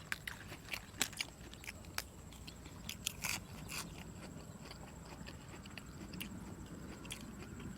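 A person chewing and biting soy-sauce-pickled seafood close to the microphone, with many sharp, crisp clicks over the first four seconds, then quieter chewing.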